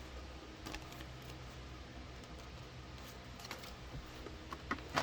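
A few light clicks and taps over a low steady hum, growing more frequent near the end.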